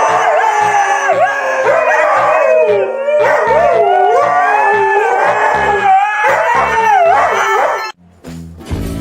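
Dog howling in long calls that slide up and down in pitch, over music with a steady low bass beat. Both cut off abruptly about eight seconds in.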